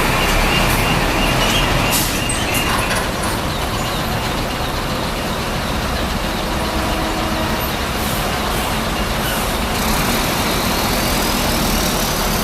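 Heavy truck engine running steadily with a low rumble, with a few short knocks in the first three seconds and a faint whine that rises and falls near the end.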